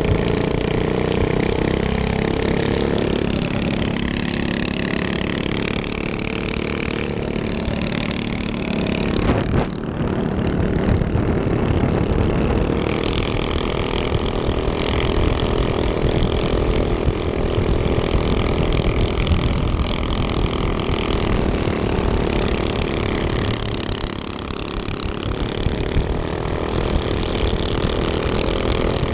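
Small minibike engine running under way, its note rising and falling as the throttle is opened and eased off.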